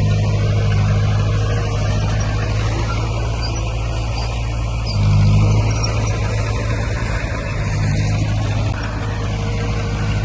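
Diesel engine of heavy earthmoving equipment running steadily at work, with a short rise in engine note about five seconds in.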